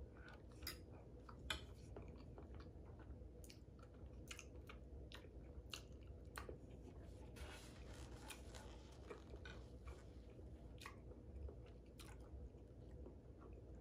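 Faint, close-miked chewing of a mouthful of lasagna: scattered soft wet mouth clicks and smacks, with a short rustling hiss about halfway through.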